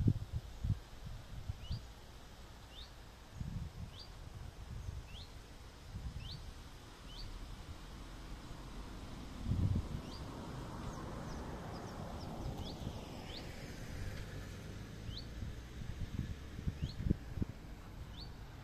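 A small bird calling: a short, high, rising chirp repeated about once a second. Low rumbling bumps on the microphone come and go underneath, the strongest at the start and about halfway through.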